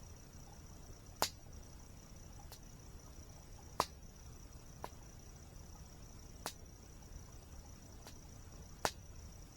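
Campfire wood crackling, with about seven sharp, scattered pops, over a steady high-pitched insect chirring of crickets.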